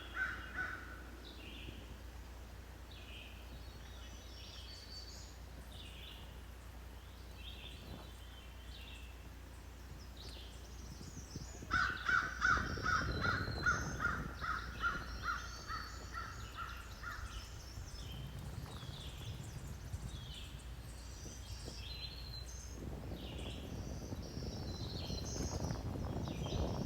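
Wild birds singing and chirping, with a rapid series of loud, harsh calls starting about twelve seconds in and lasting about six seconds. A low rushing noise rises near the end.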